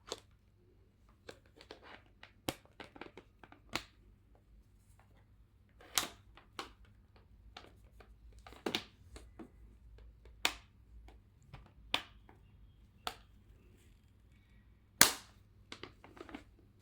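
Irregular plastic clicks and knocks as a mop pad and its mop bracket are fitted to the underside of a robot vacuum, with the loudest click near the end.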